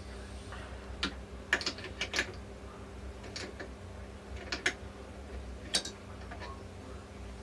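Irregular light clicks and taps of steel overdrive parts being handled and fitted together, about a dozen spread over several seconds with a small cluster a second or two in.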